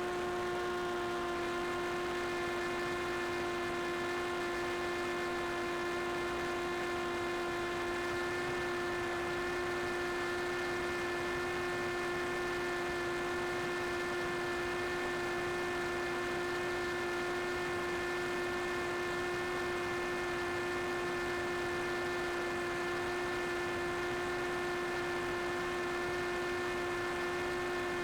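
Small camera drone hovering, its propellers giving a steady, unchanging whine with several overtones.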